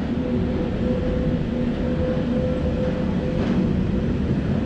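Matterhorn Gotthard Bahn metre-gauge train running, heard from an open coach window: a steady low rumble with a held hum, echoing a little louder as the train enters a concrete tunnel.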